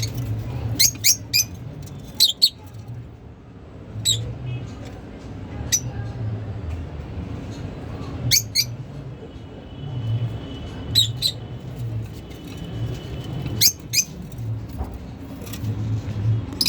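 Lovebirds giving short, shrill chirps, often two at a time, every second or two, over a low background rumble.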